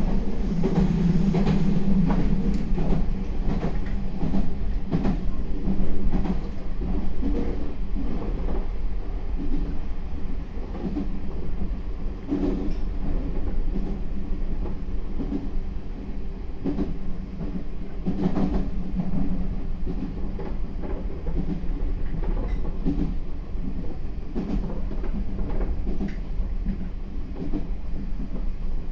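Meitetsu 4000 series electric train running, heard from inside the car: a steady rumble of the wheels on the rails, with repeated clacks as the wheels pass over rail joints.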